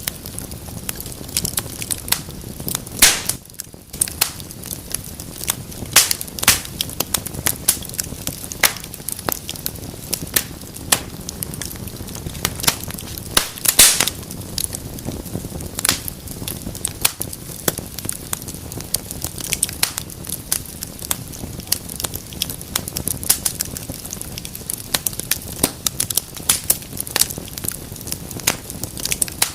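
Wood fire crackling in a fireplace: irregular sharp pops and snaps over a steady low rush of burning, with louder pops about three seconds in and near the middle.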